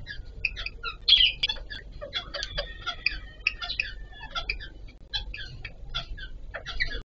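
Indian ringneck parakeets chattering in rapid, short chirps and squeaks, several a second, the loudest about a second in.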